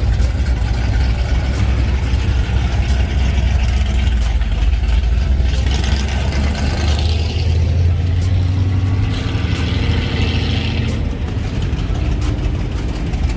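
Car engines running steadily with a deep, low sound as classic cars and hot rods creep past in slow traffic, with a little extra engine noise rising twice partway through.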